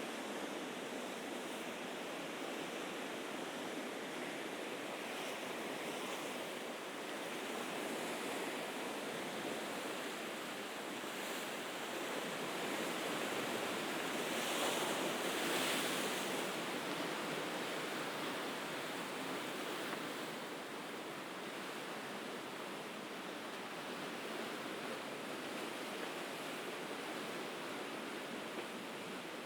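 Mediterranean sea waves washing on the shore as a steady wash that swells to its loudest about halfway through, then eases.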